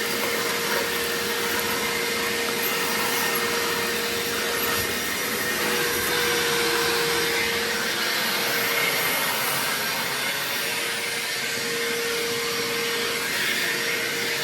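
BAUER 3-gallon, 3 peak HP wet/dry shop vac running steadily and sucking up wood debris: a continuous rush of air with a steady whine.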